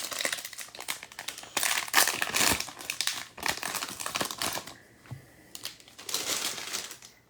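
Plastic wrappers of 2022 Bowman baseball card packs crinkling and tearing as they are opened. The rustling comes in several louder spells.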